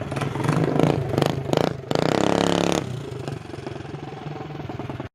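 Coleman CT200U minibike's single-cylinder engine revving through a loop-style exhaust pipe: several quick throttle blips, one held rev, then settling back to idle. It cuts off suddenly near the end.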